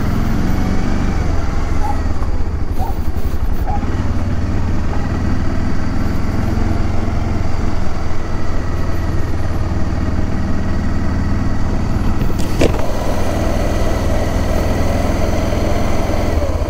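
Motorcycle engine running steadily with a fast, even firing pulse. A single sharp knock comes near the end.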